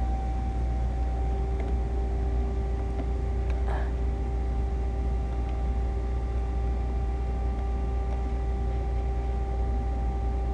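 Steady low machine hum with a constant tone in it.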